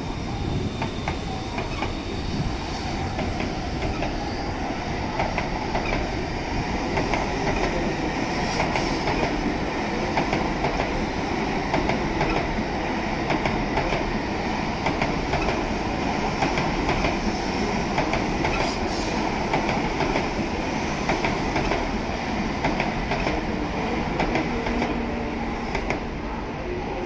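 N700S Shinkansen train running past and gathering speed: a steady rolling and motor noise with a rapid clatter of wheels over rail joints and points. It swells over the first few seconds and eases off near the end as the last cars go by.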